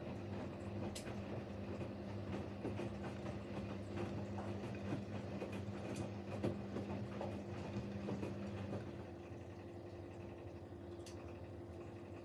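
Siemens Siwamat Plus 574 washing machine at the end of a rinse: a steady motor hum with irregular gurgling of water. The hum drops out about nine seconds in, leaving a quieter steady sound.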